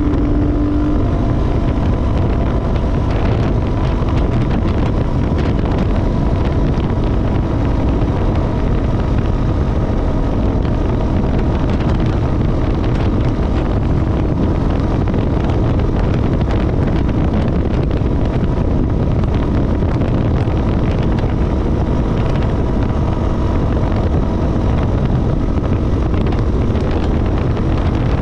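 2017 KTM 450 EXC's single-cylinder four-stroke engine running at a steady speed while riding, with heavy wind noise on the microphone.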